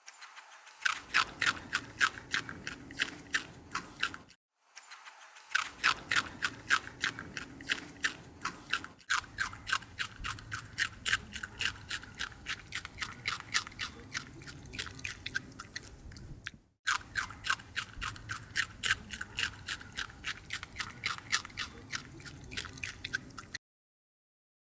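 A rabbit chewing food: rapid, rhythmic crunching at about four bites a second, in three stretches broken by short pauses.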